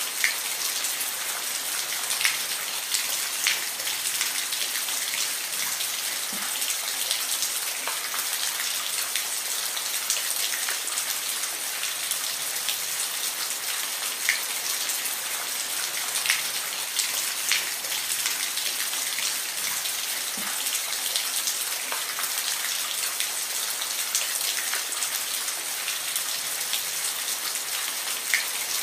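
Steady rain falling, a dense even hiss with individual drops ticking sharply on a hard surface here and there.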